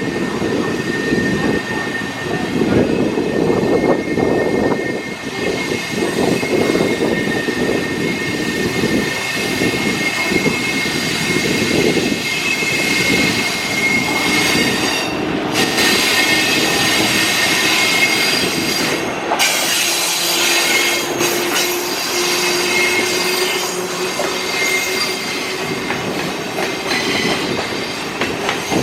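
A freight train of grain hopper wagons rolling past with a dense rumbling clatter, its wheels giving off a steady high-pitched squeal throughout. The clatter eases in the second half as a lower steady tone comes in.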